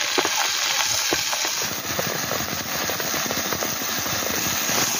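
Spinach sautéing in hot oil in a pan: a steady sizzle with dense crackling.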